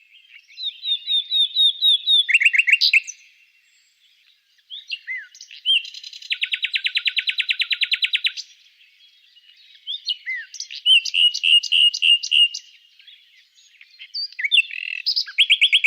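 Songbird singing in separate phrases of high chirps and quick falling notes, with short pauses between phrases and a fast, even trill lasting about two seconds near the middle.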